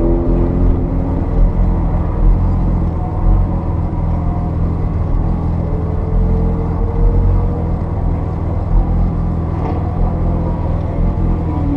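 Porsche 930 Turbo's air-cooled turbocharged 3.3-litre flat-six running steadily under load, a deep, even drone, with a faint gliding tone about six seconds in.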